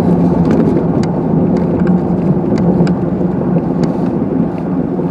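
Car driving on a snow-covered road, heard from inside the cabin: a loud, steady rumble of tyres and road with a low engine drone, and scattered sharp clicks and knocks from the car.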